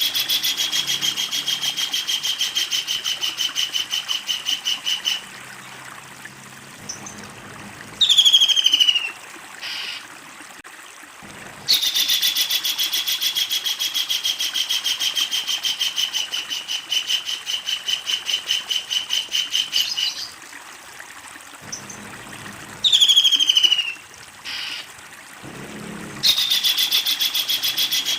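A kingfisher giving its long rapid chattering call: three long bouts of quick, evenly repeated notes at a steady pitch. Between the bouts come short calls that fall in pitch.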